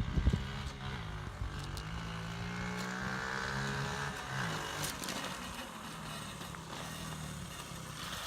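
Honda Z50R's small single-cylinder four-stroke engine running at a steady pitch, easing down slightly about four seconds in, after a couple of knocks at the very start.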